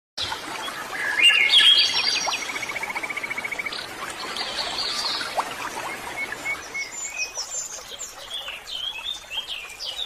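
Several songbirds chirping and whistling, with one rapid even trill of about fourteen notes a second lasting just over a second, about two and a half seconds in. A steady hiss runs beneath.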